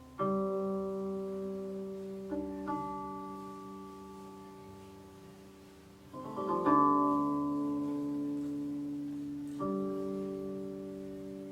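Guqin, the seven-string Chinese zither, played solo: sparse plucked notes and chords that ring out with long decays. A louder cluster of notes about six seconds in includes a sliding, falling pitch.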